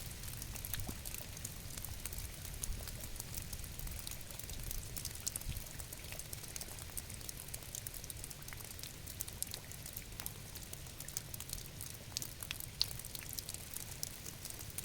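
Rain falling steadily, with many small scattered drop ticks over a low rumble.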